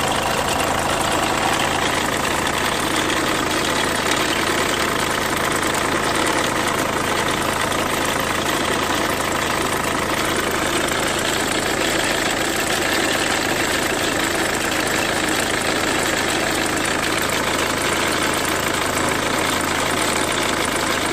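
Renault Mégane II 1.5 dCi four-cylinder diesel engine idling steadily with a bird-like chirping noise, which the owner thinks means the timing belt needs redoing.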